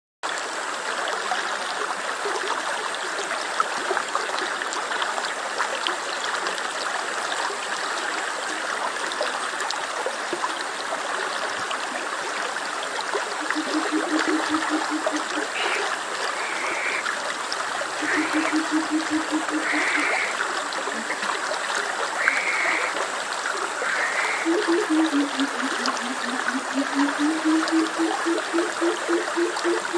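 A stream of water running steadily. From about halfway in, short low rapid trills join it several times, the last one dipping and rising in pitch, along with a few brief higher chirps.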